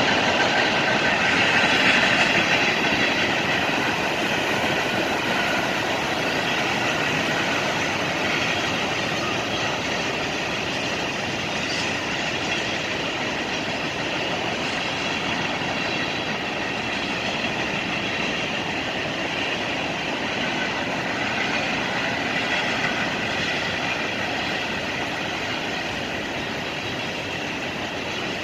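Freight train cars rolling past on the rails: a steady, loud rolling rattle that eases off slightly toward the end.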